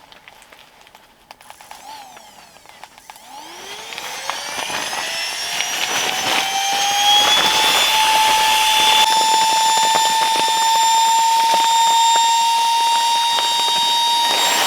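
A tiny battery-powered inflator's motor spinning up about three seconds in, its whine rising in pitch, then running at a steady pitch, loud.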